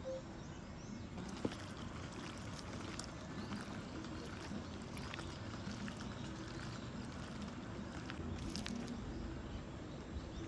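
Steady flowing river water, with a few faint clicks over it.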